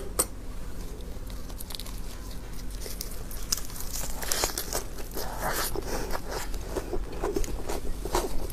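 Close-miked eating: crisp crunching as a lettuce leaf wrapped around braised pork belly is bitten, then wet chewing clicks. It is quieter at first and busiest from about halfway through.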